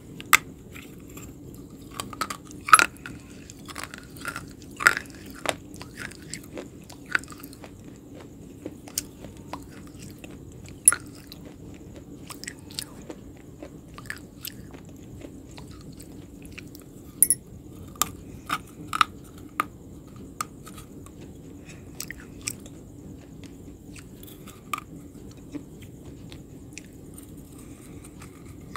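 Close-miked biting and chewing of a crunchy food: irregular sharp crunches, some much louder than the rest, between quieter chewing, over a steady low hum.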